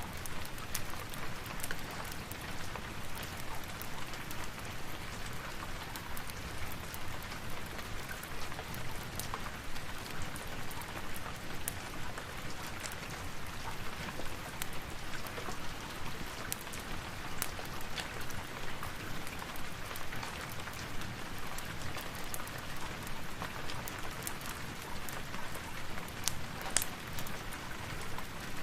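Steady rain, with the scattered sharp crackle of a log fire mixed in.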